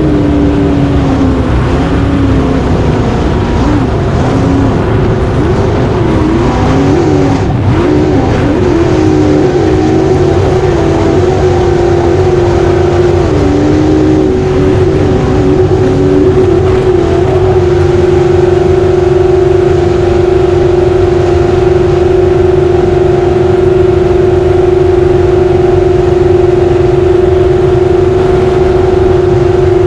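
Racing jet boat engine running loud, its pitch rising and falling with the throttle through the first half, then held steady at high revs from a little past halfway.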